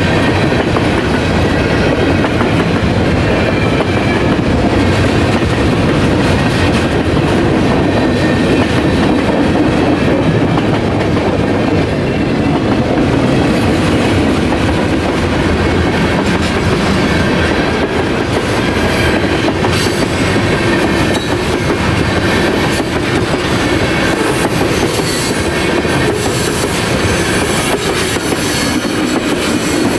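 Train passing, its cars' wheels running over the rails with a steady clickety-clack and an occasional light wheel squeal.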